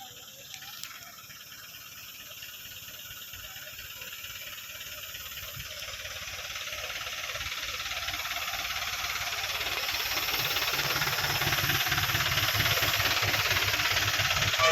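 Road vehicle approaching, its engine and tyre noise a steady hiss that grows louder throughout, with a low rumble coming in over the last few seconds.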